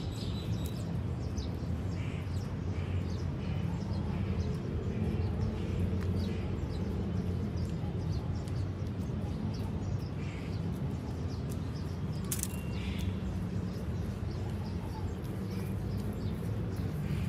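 Garden ambience: small birds chirping now and then over a steady low rumble, with one brief sharp click about twelve seconds in.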